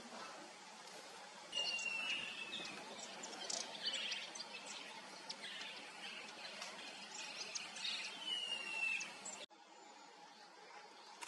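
Small birds calling: a busy run of thin, high chips and quick trills, with two drawn-out falling whistles, which cuts off abruptly near the end and leaves only a faint steady hiss.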